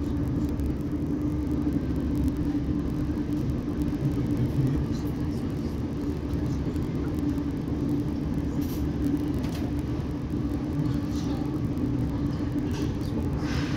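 South Western Railway Class 455 electric multiple unit running at speed, heard from inside the passenger saloon: a steady rumble from the wheels and track with a constant low hum.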